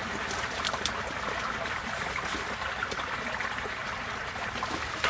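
Receding floodwater running and trickling steadily, with a few brief splashy ticks.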